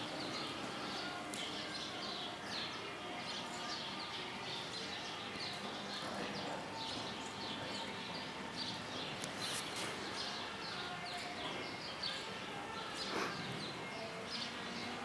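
Small birds chirping continuously, many short high chirps one after another, over a steady background hiss.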